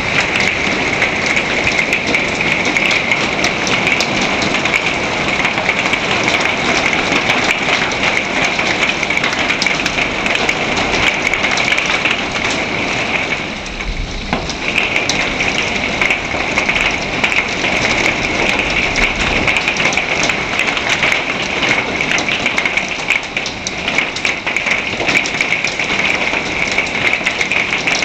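Heavy rain mixed with hail pelting down in a thunderstorm: a dense, steady hiss with many sharp ticks of impacts. About halfway through the hiss eases briefly and a low rumble comes in for a few seconds.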